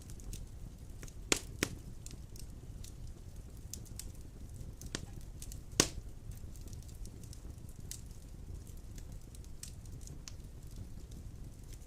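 Wood fire burning in a fireplace: a steady low rumble of flames with scattered crackles and a few sharp pops, the loudest about a second and a half in and near six seconds in.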